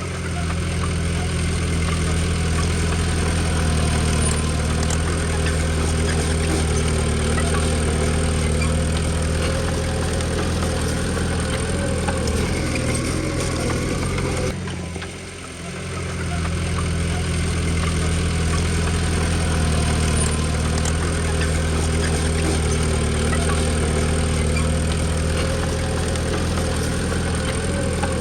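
Komatsu D20P bulldozer's diesel engine running steadily with a low drone. The sound drops away briefly about fifteen seconds in, then resumes as before.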